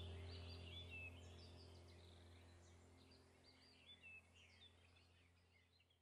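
Faint birdsong, short high chirps and whistles, over a low steady hum, the whole fading out to silence.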